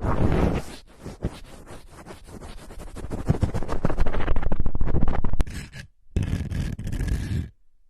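Close-miked scratching and scraping in rapid, irregular strokes, with short breaks about six seconds in and just before the end.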